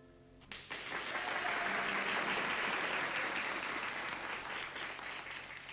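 Audience applauding, breaking out about half a second in just after the last instrumental note dies away, then tapering off near the end.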